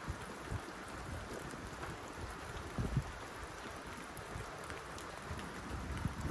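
Rain falling steadily on a tin roof: an even hiss of drops on the metal, with heavier drops landing as irregular dull thuds, the loudest about three seconds in and again near the end.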